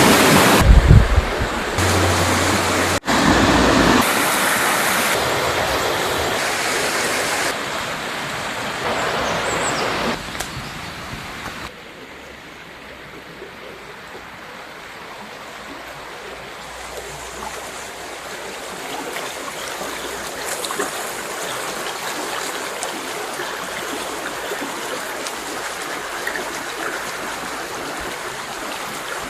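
River water rushing over rocks, a steady hiss of flowing water. Over the first twelve seconds or so it jumps abruptly louder and softer several times, then settles into a quieter, even flow with a few faint bird chirps over it.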